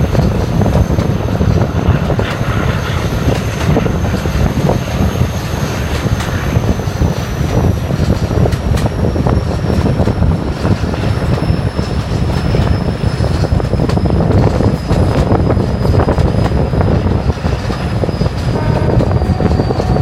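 A train in motion heard on board, hauled by Class 17 diesel locomotive D8568: a steady loud rumble with scattered clicks and knocks from the wheels on the track. A thin high whine slowly falls in pitch.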